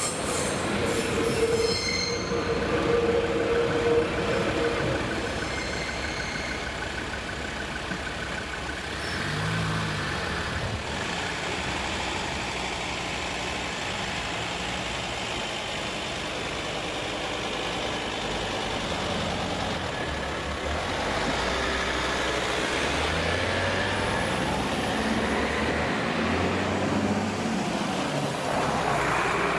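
A red Siemens DB Regio diesel railcar rolls through a single-track level crossing, with a steady high whine over the first few seconds that then fades. After that, cars and vans drive over the crossing one after another, several passing near the end.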